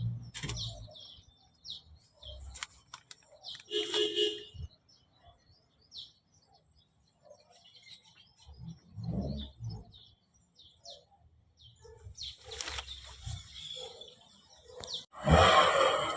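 Small birds chirping in short calls, with scattered clicks and knocks. A louder clatter comes near the end.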